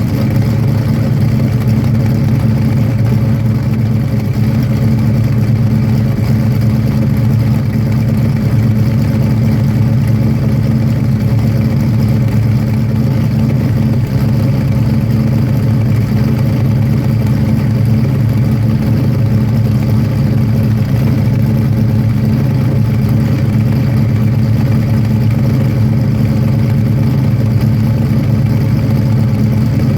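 Ford 351 Cleveland V8 in a 1967 Mustang idling steadily through Hooker headers, an X-pipe and 2.5-inch Pypes race exhaust.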